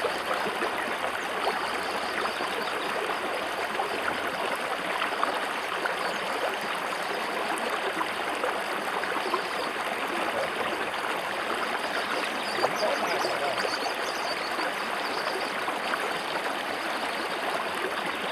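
River water rushing steadily over rocks, a continuous even rush flecked with small splashes.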